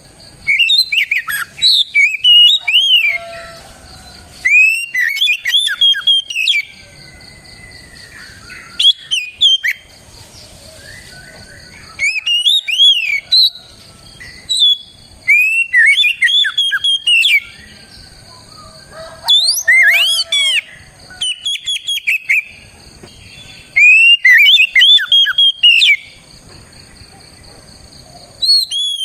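Oriental magpie-robin (kacer) singing at full voice: loud phrases of rapid, varied whistles and chirps that slur up and down, repeated about ten times with short pauses between. A faint steady high-pitched hum runs underneath.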